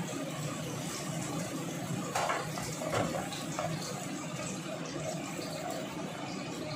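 Garlic sizzling in oil in a wok over a gas flame, a steady hiss, with a wooden spatula scraping and knocking against the wok a few times about two to three seconds in.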